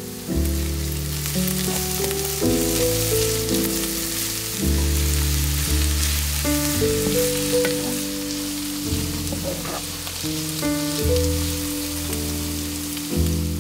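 Diced eggplant and garlic sizzling steadily in a hot frying pan, stirred now and then with a wooden spatula. Background music with slow, held notes plays underneath.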